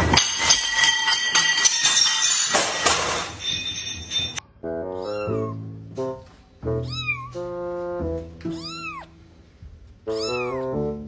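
A cat meowing about four times, each meow rising and then falling in pitch, over background music with steady stepped notes. Before that, a dense, noisy stretch cuts off suddenly about four seconds in.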